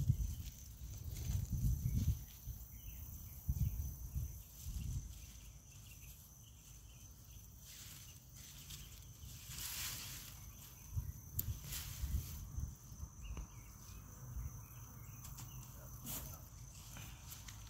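Garden digging and handling noise: dull low thumps and rustling of sweet potato vines and soil being pulled up, busiest in the first few seconds, with a few sharp clicks later, over a steady high-pitched drone.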